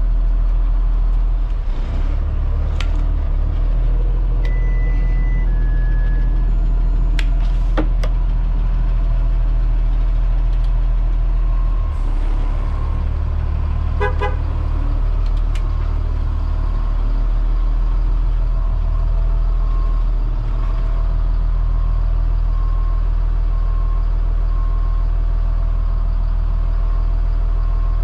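A Blue Bird All American school bus's Cat C7 diesel engine running steadily, with a few short electronic beeps in the first part and a faint beep repeating about once a second from about halfway on.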